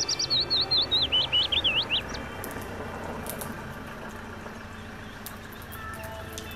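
A songbird giving a rapid run of chirping notes for about two seconds, each note dipping in pitch and the run stepping lower as it goes, followed by a few faint sharp clicks.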